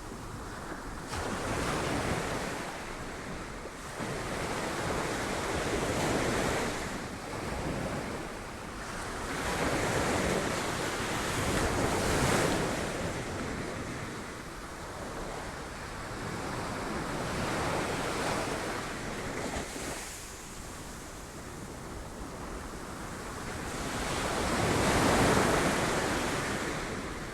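Sea waves breaking against rocks, swelling and ebbing in surges every few seconds, with the biggest surge near the end.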